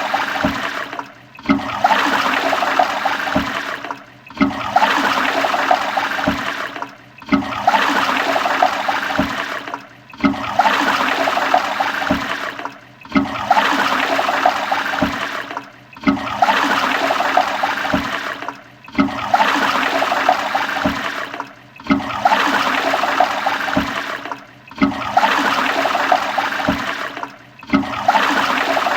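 Toilet flushing: a short rush of water that repeats about every three seconds, with a brief drop between each flush.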